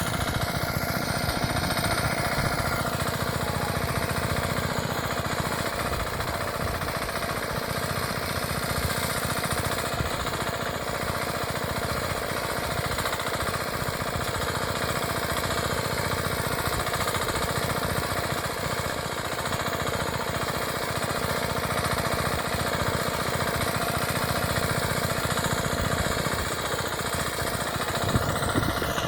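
The 5 hp air-cooled engine of a walk-behind power tiller running steadily with a rapid, even putter.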